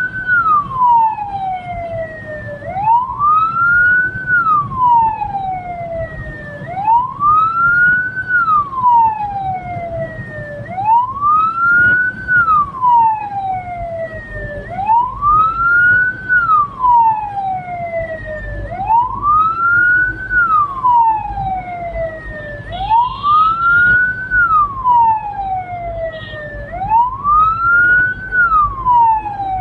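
Hearse siren wailing in a slow, repeating cycle: each wail rises quickly in pitch and falls back more slowly, about once every four seconds, over a low vehicle rumble.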